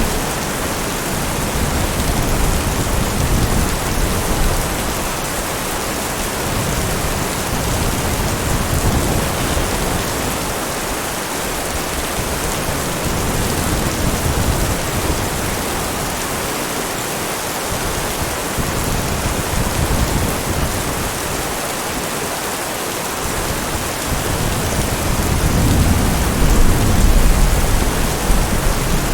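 Steady heavy rain falling, with distant thunder rumbling low underneath, swelling louder near the end.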